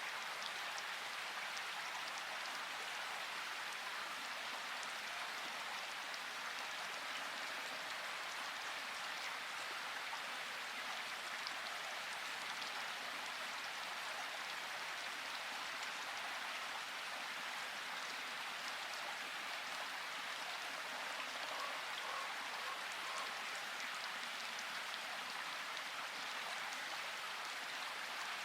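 Steady rain falling: an even hiss with fine patter of individual drops, with no thunder.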